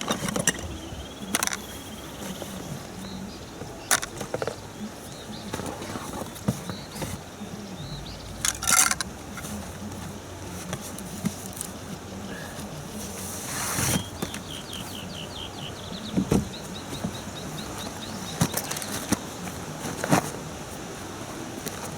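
Inflatable boat and its packing being handled during unpacking: scattered knocks and clicks with a few short bursts of rustling.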